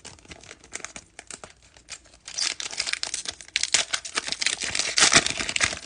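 Foil wrapper of a 2020 Topps Fire hobby pack being torn open and crinkled, after a couple of seconds of scattered light clicks, with the crinkling densest in the last few seconds.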